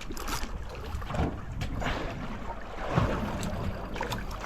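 Wind and water noise on a small open fishing boat, with a few short knocks scattered through.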